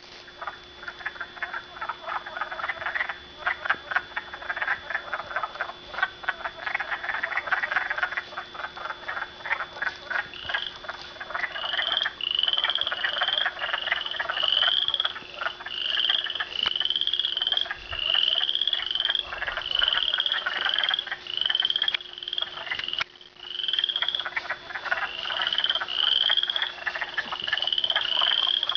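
A chorus of frogs calling: a dense, continuous mass of rapid croaks and clicks. About a third of the way in, a higher rising call joins it, repeated roughly once a second.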